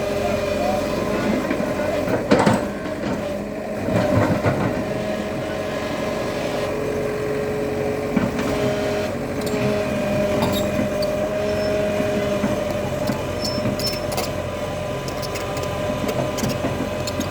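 Excavator's diesel engine running steadily under work, with a sharp knock about two seconds in and a short clatter around four seconds in.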